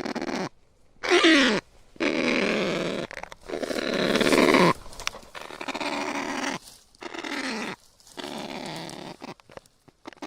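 Kakapo calling: a run of rough, noisy squawking calls with short gaps between them. One call about a second in slides down in pitch.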